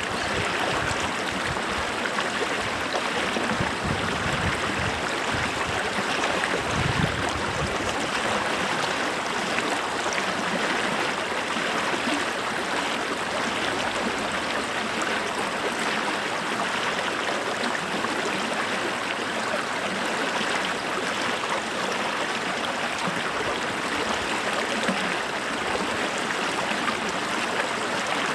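Creek water flowing and burbling over rocks, a steady rushing and gurgling.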